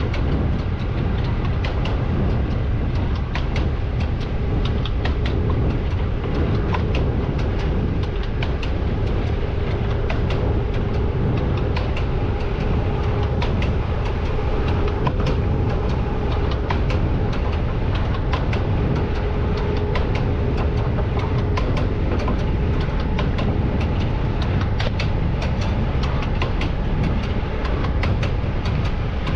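Siemens Vectron electric locomotive at the head of a freight train running along the line: a steady low rumble of wheels on rail, with many irregular clicks and knocks from the track and a faint steady hum.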